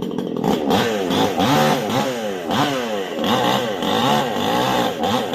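Chainsaw engine revving up and down over and over, its pitch rising and falling about twice a second.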